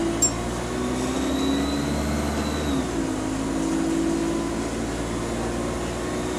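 Bus engine running under way, heard from inside the bus. About three seconds in, the engine note drops and changes, as at a gear change. A faint high whistle comes and goes over the first few seconds; the bus is said to have a turbo leak.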